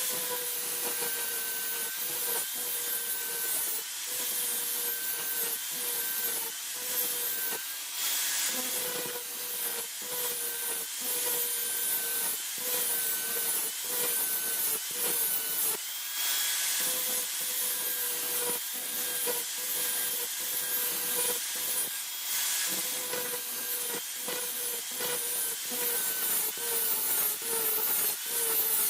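Electric grinding or sanding tool running steadily and worked against the piece in repeated passes, its motor tone sinking slightly under load over a rasping, abrasive sound.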